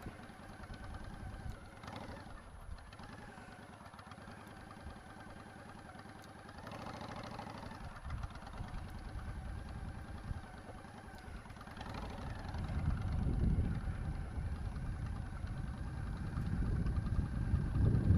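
Motorcycle engine running at idle, with a low rumble growing louder over the last few seconds.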